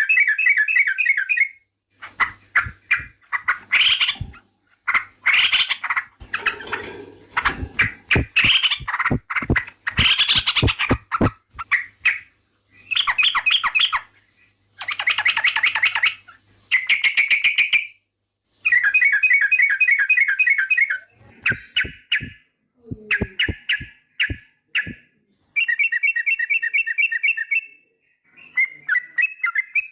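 Yellow-vented bulbul (trucukan) singing: repeated loud, bubbly chattering phrases of a second or two each, with short pauses between them. Sharp clicks fall between the phrases for much of the first half and again in the middle of the second half.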